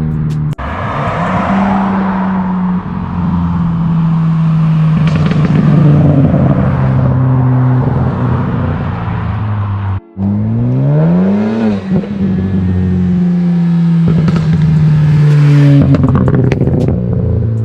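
Ford Focus ST with a catless AWE Track Edition exhaust and Vibrant ultra-quiet resonator, driven hard at full throttle. The deep exhaust note climbs in pitch and falls back at the gear changes, with a brief cut about ten seconds in.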